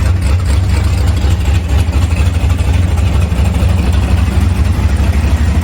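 Cammed GM LS V8 in a square body truck idling steadily after a fresh tune. The idle now runs smoothly where it had been running rough.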